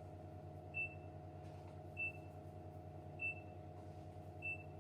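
An electronic beeper sounding a short, high beep about every 1.2 seconds, four times, over a steady low hum.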